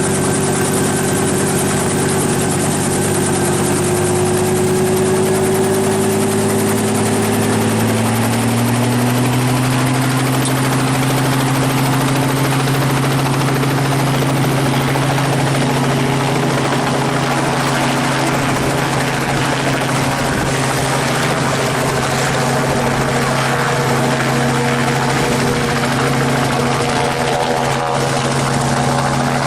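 Helicopter running steadily, heard from on board during a flight, a constant loud mix of engine and rotor noise. Its low humming tones shift in pitch about a quarter of the way in.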